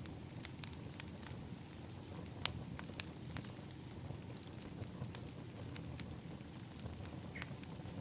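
Wood fire in an outdoor fire pit crackling: scattered sharp pops over a steady low rumble, the loudest pop about two and a half seconds in.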